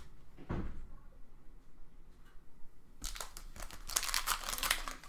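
Crinkling of a trading-card pack wrapper: a dense run of crackly rustles starting about three seconds in.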